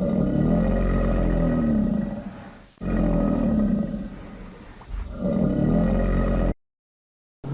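A large animal roaring: three long calls a couple of seconds apart, then the sound cuts off abruptly near the end.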